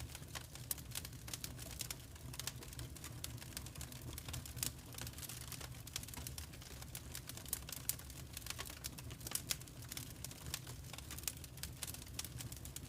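Fire crackling in a fireplace: irregular snaps and pops, several a second, over a low steady rumble.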